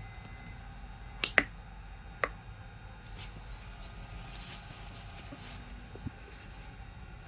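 A few sharp clicks of hard objects being handled: two close together about a second in, another a second later, and a fainter tap near the end, over a steady low hum.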